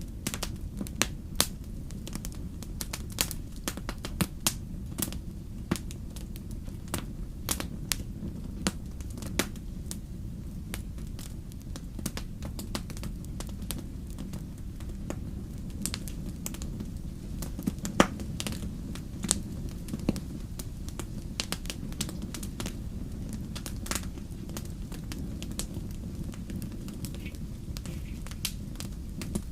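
Wood fire crackling: irregular sharp pops and snaps, scattered unevenly with one louder pop about two thirds of the way through, over a steady low rumble.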